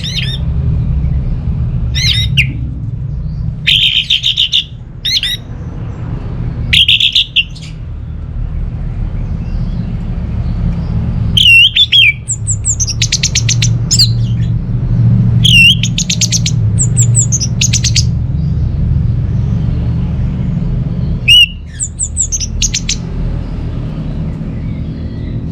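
Orange-headed thrush calling and singing: short, harsh repeated notes every second or so at first, then, about halfway through, longer phrases with sliding whistled notes and rapid rattling notes. A steady low hum runs underneath.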